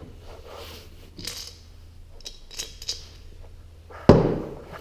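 Small metal engine parts and tools being handled during reassembly of a small two-stroke engine: light clicks and clinks, then one sharp metallic knock about four seconds in.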